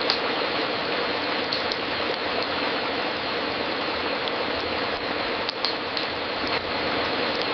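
Fireplace crackling: a steady hiss with scattered sharp pops, a few of them bunched together about five and a half to six and a half seconds in.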